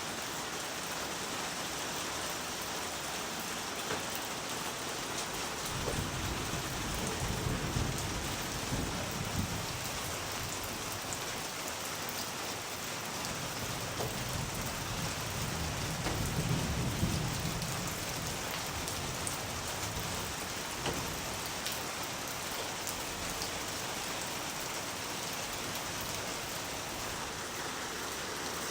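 Steady rain falling, an even hiss of many drops. Twice, about six seconds in and again around the middle, a low roll of thunder rumbles up and fades.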